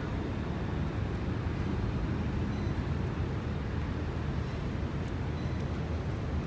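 Steady low rumble of background noise, even in level throughout, with no distinct events.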